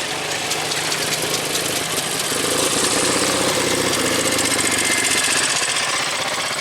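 A vintage military vehicle's engine running as it drives past, growing louder about two seconds in and fading again near the end.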